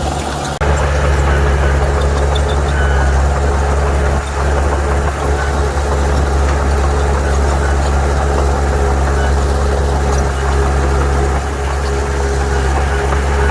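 Heavy diesel engine of earthmoving machinery running steadily with a deep, even drone, after a brief drop about half a second in.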